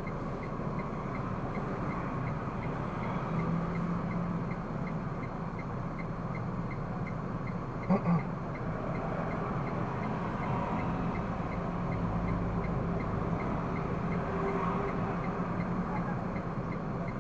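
Car driving in city traffic, heard from inside the cabin: steady engine and road noise. A faint, regular ticking repeats about two to three times a second, and there is one short knock about eight seconds in.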